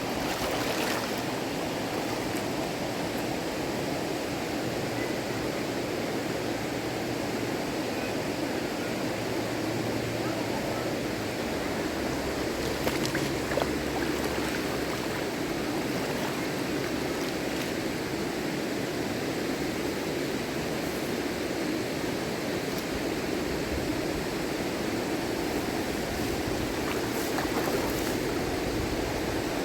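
River water rushing steadily, with a couple of faint knocks about halfway through.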